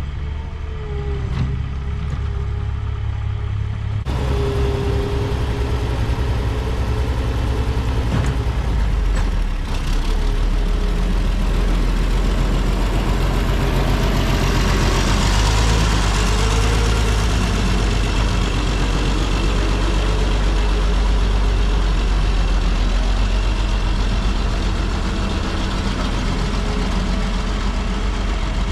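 Kubota tractor engine running steadily, growing heavier about ten seconds in, with a broad hiss swelling in the middle.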